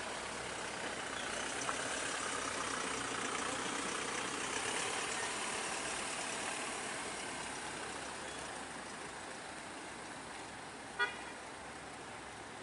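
A motor vehicle going by, its running noise swelling and then fading. A short horn beep sounds about eleven seconds in.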